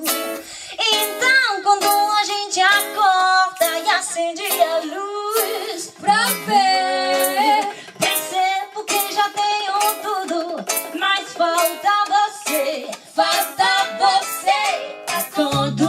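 Acoustic cumbia band playing: a charango picks out the melody over guitar, with bongó and cajón keeping a steady beat. A bass comes in near the end.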